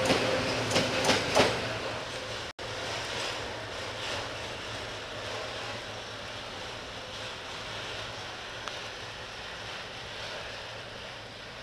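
Freight train behind a Sulzer 060-DA diesel-electric locomotive passing close, wheels clacking over rail joints. About two and a half seconds in the sound cuts off sharply and gives way to a quieter, steady rumble of a train in the distance.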